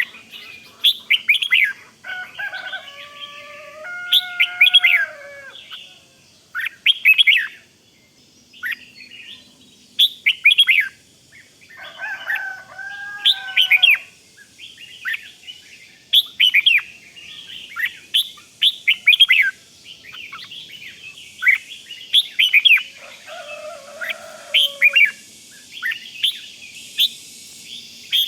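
Red-whiskered bulbul calling: short, sharp chirps repeated in quick clusters, broken three times by a lower, longer warbled phrase.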